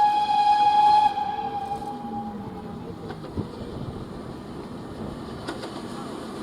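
Steam locomotive whistle: one short, shrill single-note blast that cuts off about a second in and dies away, followed by the steady running sound of the train.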